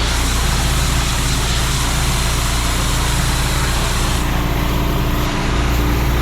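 Petrol pressure washer engine running steadily under the loud hiss of its high-pressure water spray; the hiss changes about four seconds in.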